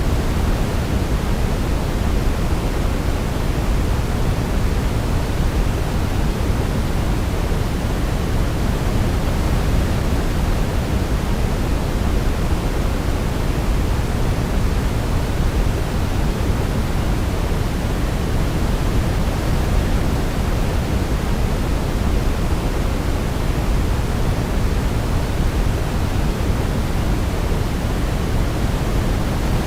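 Steady sleep-aid noise for a baby: an even, unbroken hiss weighted toward the low end, with no melody standing out.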